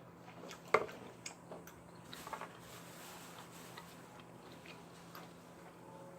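A person chewing food close to the microphone, with wet mouth clicks. The sharpest click comes a little under a second in, a few smaller ones follow, and the chewing is quieter after that.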